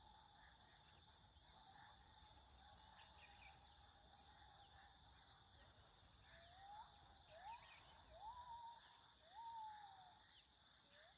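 Faint natural ambience: a steady high-pitched hum runs throughout. From about six seconds in, a bird repeatedly whistles a note that rises and then holds, about once a second, with other birds chirping briefly.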